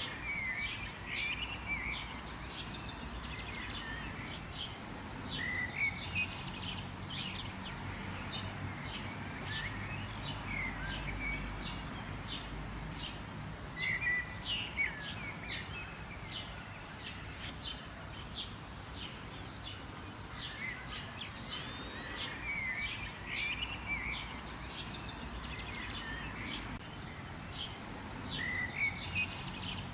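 Several wild birds chirping and calling over steady low outdoor background noise, with many quick high chirps and a curved call phrase that comes back every several seconds.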